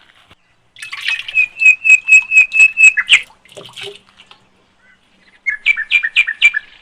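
A bird calling loudly: a run of quick, evenly repeated sharp notes, about four a second for roughly two seconds, then a shorter run of the same notes near the end.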